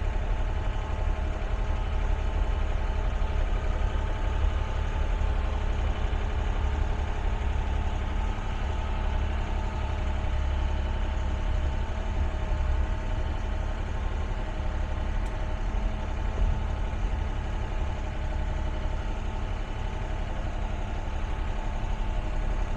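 Excavator's diesel engine running steadily, a low, even drone that holds its pitch throughout.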